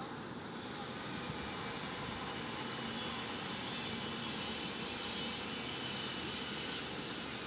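Steady rushing background noise of city ambience, swelling slightly in the middle, with a faint low hum underneath.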